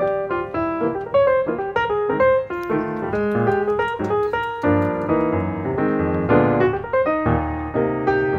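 Background piano music: a steady run of quick, separate notes.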